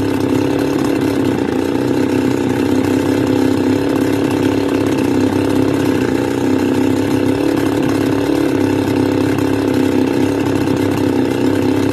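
Stihl FS280 brush cutter's two-stroke engine idling steadily at a raised idle setting. The engine has a fault that makes it stall once it warms up.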